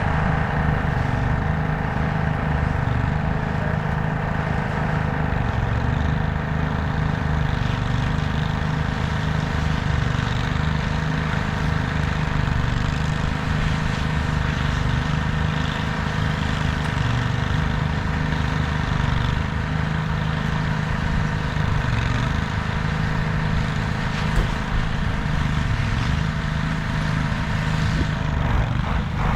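A vehicle engine running steadily with a continuous drone and a whine of several steady tones above it. There is a single faint click about 24 seconds in.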